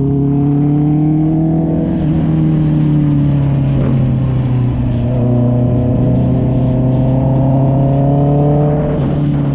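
A Honda CB650R's inline-four engine through an SC Project aftermarket exhaust, pulling under acceleration. Its note climbs gradually, dips about two seconds in, rises again, and drops sharply near the end.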